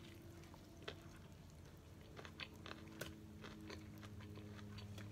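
Faint chewing of a bite of crispy fried chicken sandwich, with a scatter of small crunches from the breading. A low steady hum sits underneath.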